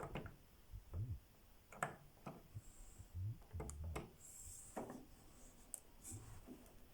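Scattered light clicks and soft knocks at uneven intervals, some with a dull low thud, like small handling noises.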